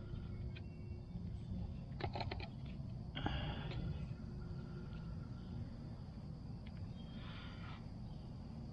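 Faint clicks and short scrapes of the recoil starter's rope and pulley being handled, over a low steady rumble.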